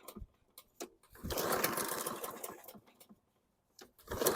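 Husqvarna mower's Briggs & Stratton 625EX engine being cranked in short bursts: once for about a second and a half, then again near the end. Each time it fails to keep running, from a fuel starvation problem.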